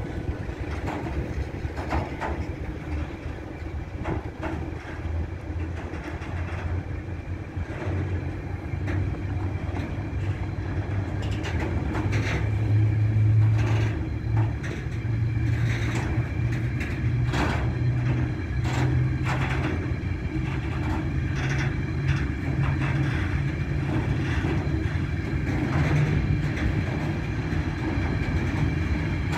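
Freight train rolling past: a steady low rumble with many irregular wheel clicks and knocks over the rails.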